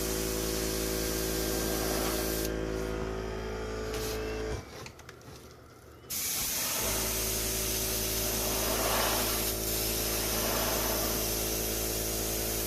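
Airbrush spraying paint in a steady hiss over the hum of its air compressor. Near the middle the spray stops and the compressor goes quiet for a moment, then both start again and run on.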